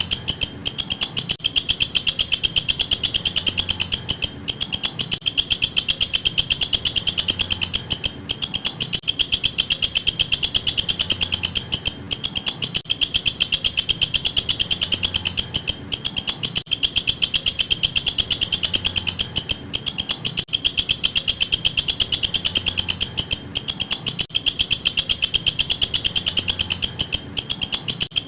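Walang kecek insect calling: a continuous, high-pitched trill of very rapid pulses, broken by a brief pause about every four seconds.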